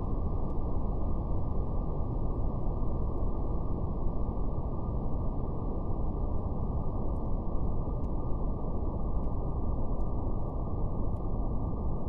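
Steady, deep brown noise, low and muffled with no highs, with a faint fire crackling as a few sparse, soft clicks.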